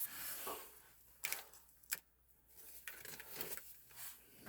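Faint handling noises: a soft rustle, then two short clicks about one and two seconds in, with quiet between.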